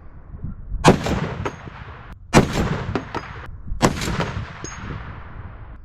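Barrett M82A1 semi-automatic .50 BMG rifle firing three shots about a second and a half apart, each followed by a long echo and a brief high metallic ring.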